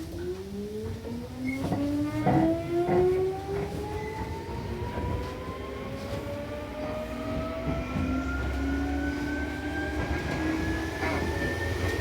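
Seibu New 2000 series electric train accelerating away from a station: its traction motors whine in several tones that rise steadily in pitch as speed builds, over a steady running rumble, with a few sharp rail-joint clacks in the first few seconds and once near the end.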